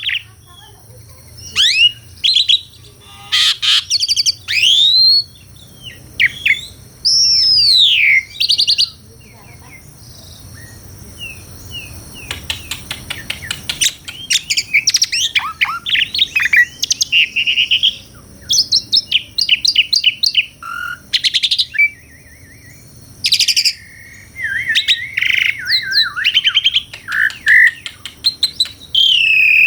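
Asian pied starling (jalak suren) singing a varied song of loud whistles, rising and falling glides and chattering notes, with a quick run of rapid clicks about halfway through and short pauses between phrases.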